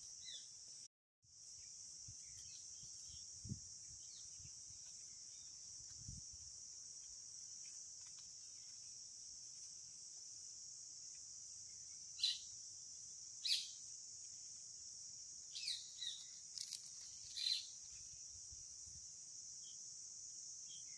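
Steady high-pitched chirring of crickets, with a few short chirps of birds or insects in the second half. The sound drops out briefly about a second in.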